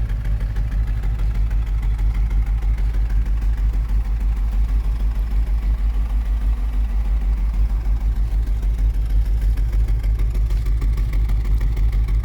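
1964 Ford Thunderbird's 390 V8 idling steadily, with an even, regular pulse in the exhaust, an idle the owner calls just right.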